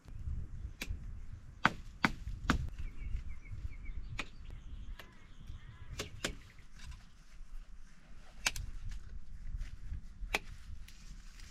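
Wood being chopped: a series of sharp, irregularly spaced strikes on wood over a low rumble of handling noise.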